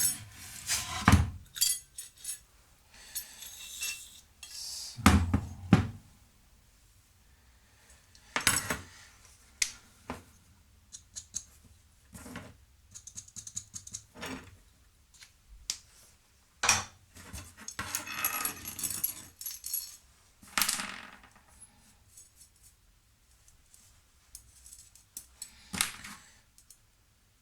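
Metal parts and tools being handled and set down on a workbench: scattered clinks and knocks at irregular intervals, with a few brief scraping rustles.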